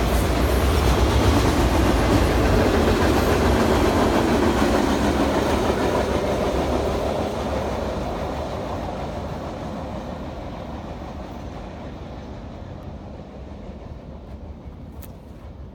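Train rolling past on the rails, its wheels and cars rumbling with some clickety-clack, then fading steadily as it moves away over the second half.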